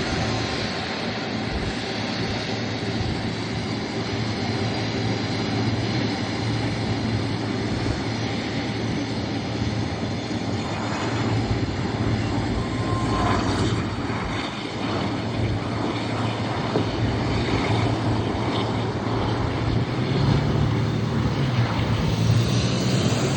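An airliner's engines running steadily: a constant loud noise with several steady whining tones over it.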